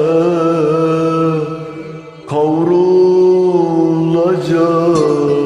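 A voice singing long held, wavering notes of a Turkish song with music, drawing out the vowels between the words of the lyric; a short break about two seconds in, then another long held note.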